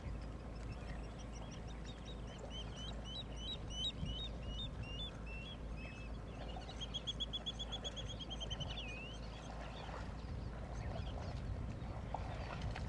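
A songbird singing: a run of repeated hooked whistled notes, then a fast trill a few seconds later that ends in an upward flick, over a low steady background rumble.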